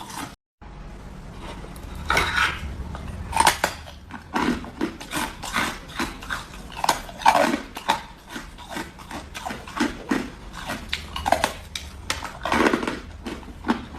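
Close-up crunching and chewing of hard frozen cola ice, a steady run of sharp cracks and grinding chews about two a second. The sound cuts out briefly about half a second in.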